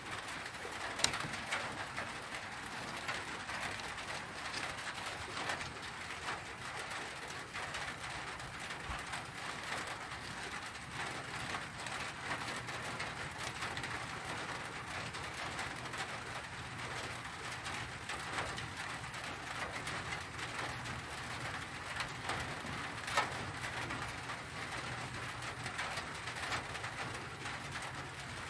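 Outdoor field ambience with birds calling, including dove-like cooing, over a steady background hiss. Two small sharp clicks sound, about a second in and again near the end.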